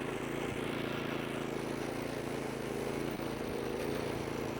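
Engine of a snow-clearing machine running at a steady pitch.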